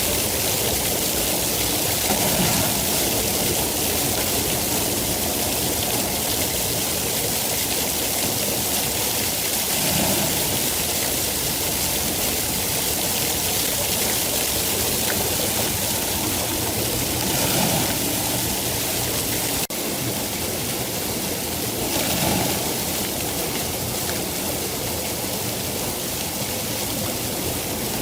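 Steady heavy rain, a continuous dense hiss with a few brief swells in level.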